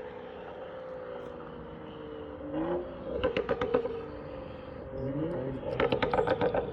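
BMW N55 turbocharged straight-six running through a catless downpipe, non-resonated AWE mid pipe and Dinan muffler: a steady engine note, then revved up twice, each rise followed by a rapid run of crackling pulses from the exhaust.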